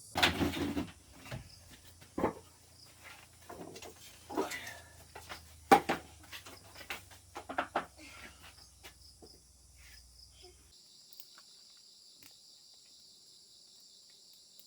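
Irregular knocks and clatters of handling things, loudest about two and six seconds in, over steady high chirring of forest insects. About ten and a half seconds in, the background changes abruptly and the knocking has stopped.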